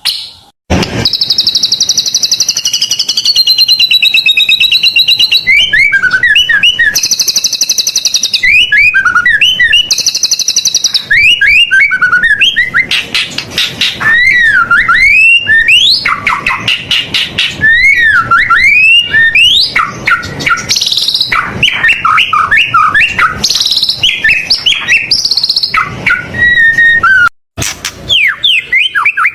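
White-rumped shama singing a loud, continuous and varied song. It opens with long buzzing trills, then runs on into quick whistled phrases that sweep up and down, with brief breaks just after the start and near the end.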